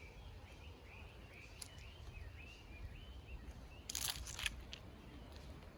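A small bird calling: a quick series of short, arching chirps, about three a second, that stops about three seconds in. A brief cluster of sharp clicks or crunches follows about four seconds in, over a low rumble.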